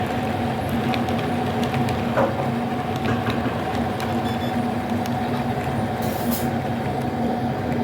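Model railway locomotive running, a steady hum with a held low tone and a higher tone, and a few faint clicks.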